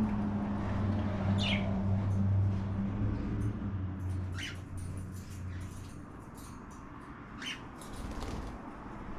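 Cockatiels giving three short chirps, each a quick downward-sliding call. A low steady hum sounds underneath and stops about three and a half seconds in.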